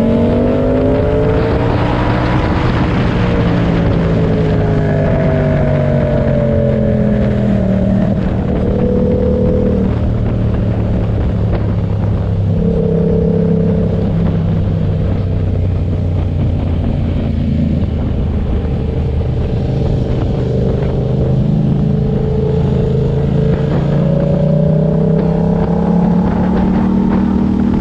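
Yamaha MT-07 parallel-twin engine through an SC Project exhaust with its dB killer fitted, heard while riding: the engine note climbs and drops as the throttle is opened and rolled off, with stretches of steady cruising, over steady wind and road noise. The revs rise about a second in, fall between about four and eight seconds in, hold fairly steady in the middle, and rise again near the end.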